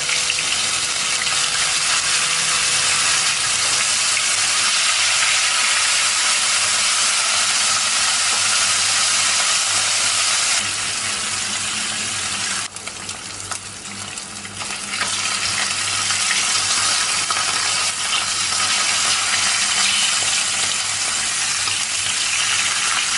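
Salted fish frying in hot oil in a pan: a steady sizzle that drops for a couple of seconds about halfway through, then comes back.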